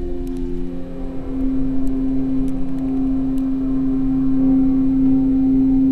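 Old elevator car rising: a steady motor hum with a low rumble underneath and a few faint ticks, growing slightly louder toward the end.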